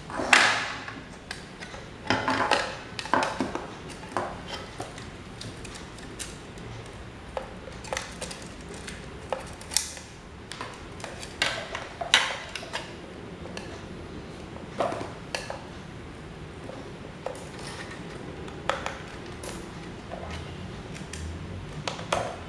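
Small metal parts and hand tools clinking and knocking: irregular sharp taps and clinks, some ringing briefly, the loudest just after the start.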